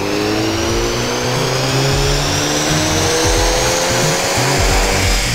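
VW Golf 7 GTI TCR's turbocharged 2.0-litre four-cylinder at full throttle on a chassis dynamometer, its pitch climbing slowly and steadily through the pull. Background music runs underneath.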